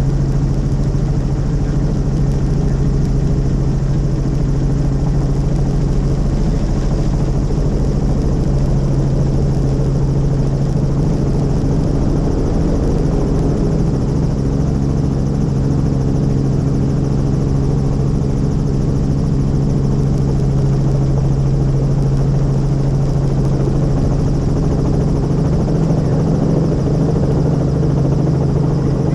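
Helicopter running steadily, heard from on board: a constant low hum from the engine and rotor that does not change.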